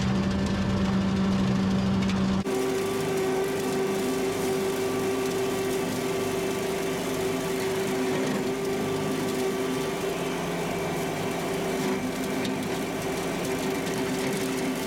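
Kubota MX5800 tractor's diesel engine running steadily at working speed while driving a rotary brush cutter, with a steady droning tone. The sound changes abruptly about two and a half seconds in, to a higher steady tone.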